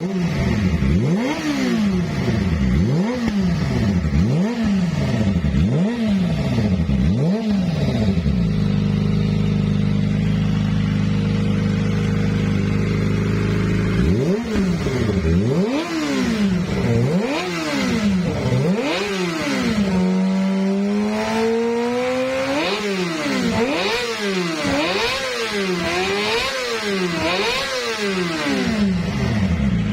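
Kawasaki ZX-25R's 250 cc inline-four running through an aftermarket racing exhaust, revved in sharp blips that rise and fall about every second and a half. It settles to a steady idle for several seconds about a third of the way in, then resumes blipping, with one longer climbing rev shortly after the middle.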